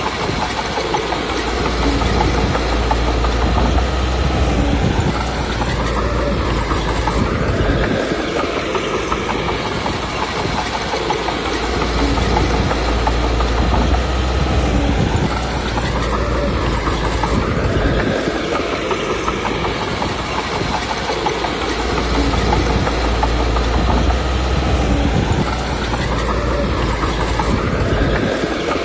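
Komatsu D21P bulldozer's diesel engine working under load. It rises and falls in a regular cycle about every ten seconds as the dozer pushes and backs off.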